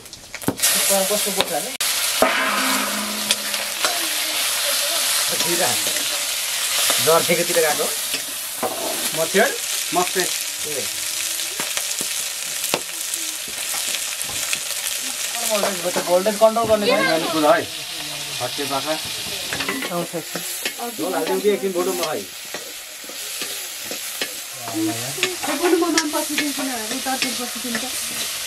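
Chicken pieces sizzling as they fry in a blackened iron wok, with a steady hiss from the hot oil. They are stirred with a metal ladle, which gives frequent scrapes and clinks against the pan.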